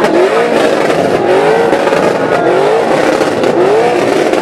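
A car engine revving hard again and again, about once a second: each rev climbs in pitch and then drops back.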